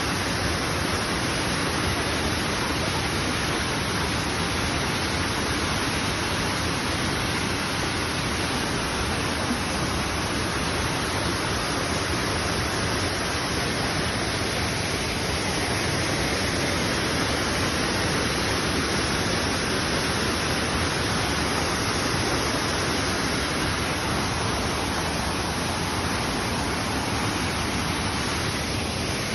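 Waterfall: falling water making a steady, unbroken rush of noise.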